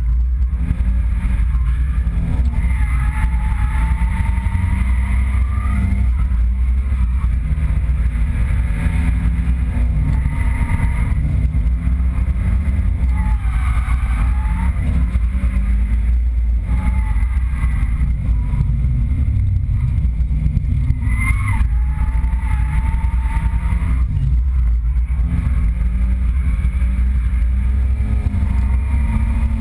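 Nissan 200SX drift car's engine revving up and down repeatedly while being driven hard, heard from inside the cabin over a heavy low rumble.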